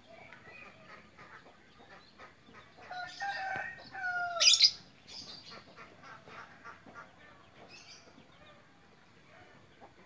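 A bird's pitched squawking call about three seconds in, ending in a sharp, loud burst about a second and a half later, with faint chirps scattered around it.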